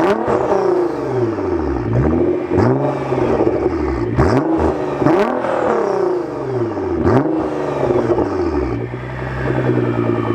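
Straight-piped Nissan GT-R R35's twin-turbo V6 being revved while stationary, in its regular map without pops and bangs. About six quick blips rise and fall in succession, with sharp cracks at several of the peaks, then it settles to a steady idle near the end.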